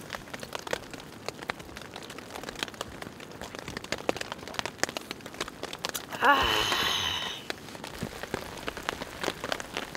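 Rain falling on the tent fabric: a dense, uneven patter of drops. About six seconds in, a short falling voice-like sound lasting about a second stands out over the rain.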